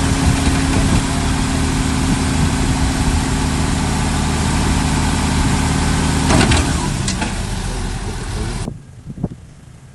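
Heavy diesel engine of earth-moving machinery running steadily, with a couple of knocks about six and a half and seven seconds in. Near the end the engine sound cuts off abruptly to a much quieter background.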